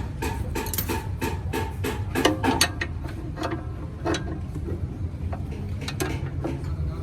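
Irregular metallic clanks and clicks of metal parts and tools being handled, over a steady low machine hum.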